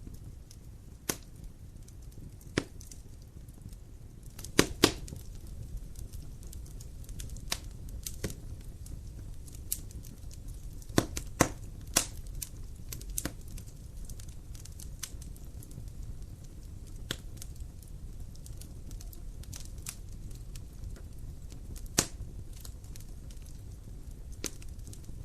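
Wood fire in a fireplace crackling: irregular sharp pops and snaps over a low, steady rumble, with the loudest pops about five seconds in, around eleven to twelve seconds, and near the end.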